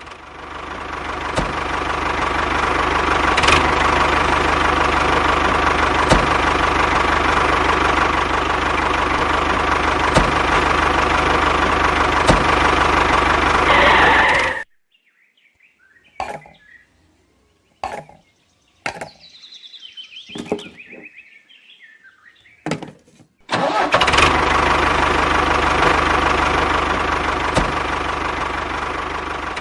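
A motor running steadily. It cuts off about fifteen seconds in, leaving a few clicks and faint handling sounds for about nine seconds, then starts running again.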